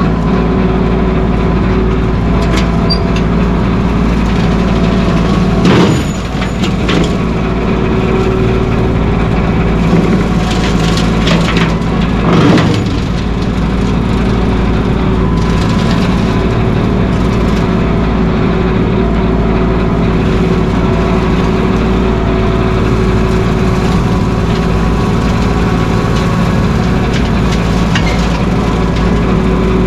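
Mahindra 1626 sub-compact tractor's three-cylinder diesel engine running steadily, with a couple of brief clunks and rattles about 6 and 12 seconds in.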